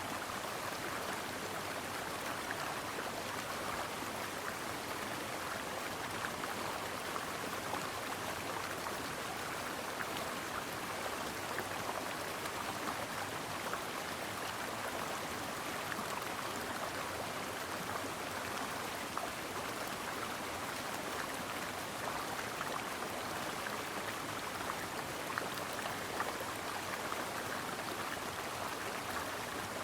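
Mountain brook running over rocks: a steady rush and babble of water, with small splashes flecking it.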